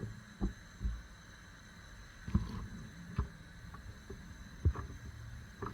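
Scattered light knocks and clatter of cookware and utensils at a pot on the hob, about six short knocks a second or so apart, as onion is added to oil that is not yet hot enough to sizzle.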